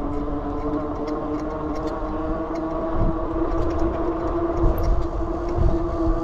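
A steady mechanical hum with several overtones, rising slightly in pitch, over a low gusty rumble.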